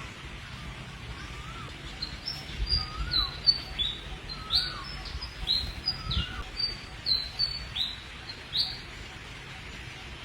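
Bird chirping: a quick series of about a dozen short, high, downward-sliding chirps, starting about two seconds in and stopping near the end. A fainter, lower, curling whistle repeats every second or two underneath.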